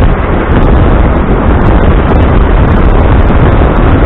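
Loud, steady wind rush on the microphone mixed with motor scooter and road noise while riding, heaviest in the low end.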